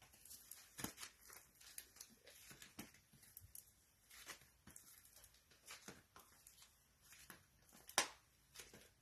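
Near silence with faint scattered taps and rustles from hands working with craft materials on a table, and one sharper click about eight seconds in.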